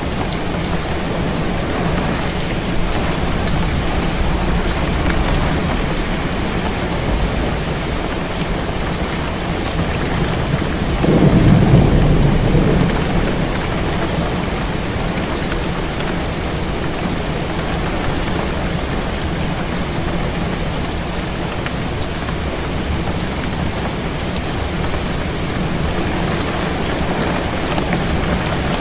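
Heavy rain falling steadily against a window, with a low roll of thunder lasting about two seconds near the middle.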